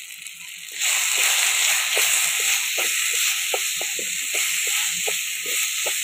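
Onion, tomato and ground spices sizzling in hot oil in a clay pot, stirred with a wooden spatula that scrapes against the pot in short strokes. The sizzling steps up loud a little under a second in and stays loud.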